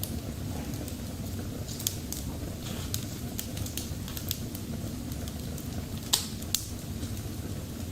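Freshly lit kindling in a wood-burning stove crackling, with irregular sharp pops and clicks; the loudest comes about six seconds in.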